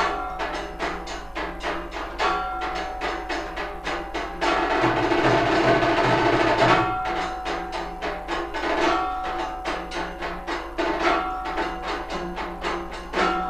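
Temple aarti percussion: drums struck in a fast, steady beat over sustained ringing tones. About four and a half seconds in it swells louder and denser for about two seconds, then settles back into the beat.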